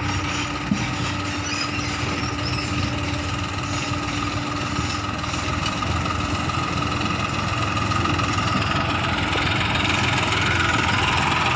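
Massey Ferguson tractor's diesel engine running steadily, growing a little louder over the last few seconds.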